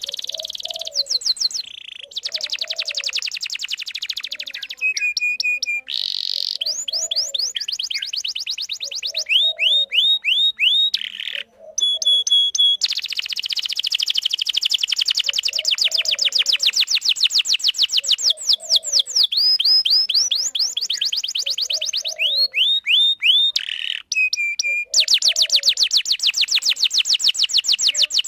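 A canary singing a long, continuous song of rapid trills. It switches every few seconds between very fast rolls and slower series of falling whistled notes, with two short breaks, one near the middle and one a little before the end.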